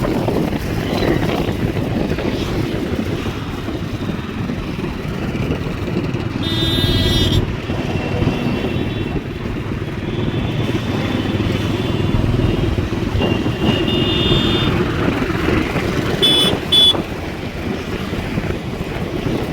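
Street traffic with motorcycles running, and short horn toots a few times: once about a third of the way in, again past the middle, and twice in quick succession near the end.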